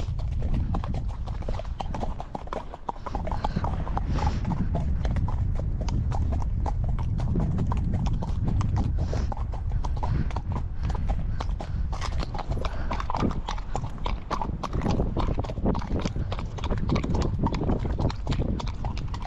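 Hoofbeats of a young ex-racehorse, a steady run of irregular clip-clops, with a heavy low rumble of high wind buffeting the microphone.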